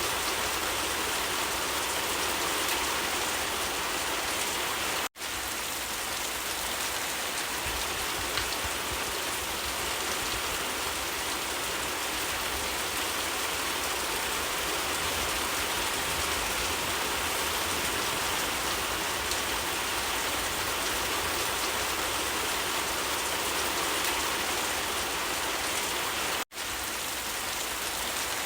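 Steady, even rain falling and pattering on surfaces, cutting out for a split second twice, about five seconds in and near the end.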